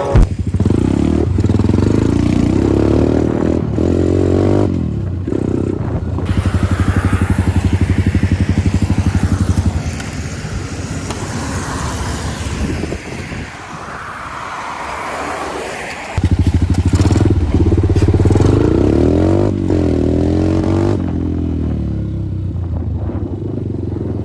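150 cc single-cylinder engine of a Progasi Smart Max 150 pit bike being ridden, its note rising and falling with the throttle. In the middle the engine drops back under wind noise on the microphone, then it pulls strongly again about two-thirds of the way through.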